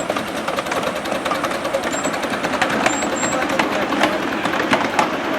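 Miniature railway locomotive running, with a steady mechanical rumble and frequent irregular clicks and knocks.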